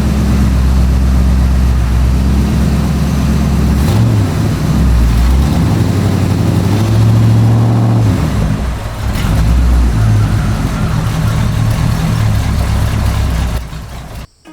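Tractor engine running steadily, shifting in pitch as if revving a few seconds in and again around the middle, then cutting off suddenly near the end.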